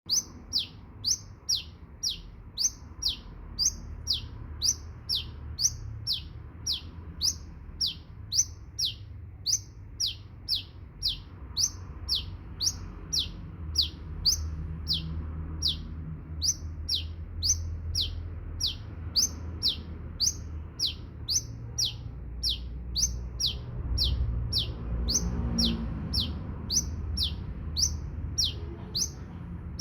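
A sunbird singing persistently: an unbroken series of short, sharp, high chirps, about two a second, each a quick steep sweep in pitch, over a faint low rumble.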